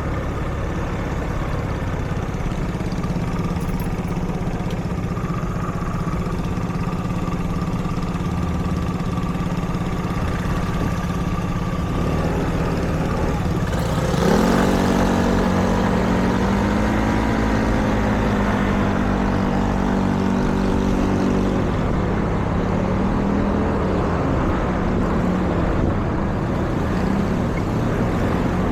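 Street traffic: a steady engine hum of idling vehicles, then about halfway through a vehicle pulls away close by, its engine note rising, holding for several seconds, then fading.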